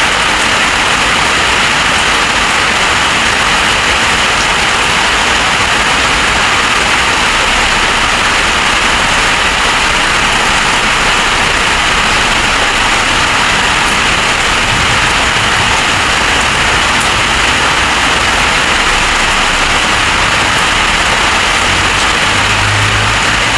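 Rainstorm: heavy rain pouring steadily, a dense even hiss with no let-up.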